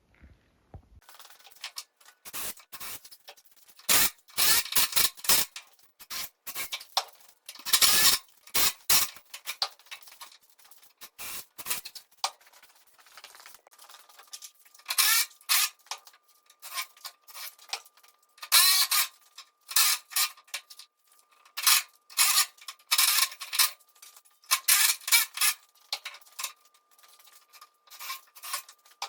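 Irregular scraping and rubbing strokes in uneven bursts, with a few knocks among them.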